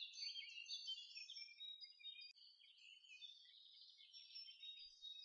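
Faint birdsong: many short, high chirps and trills.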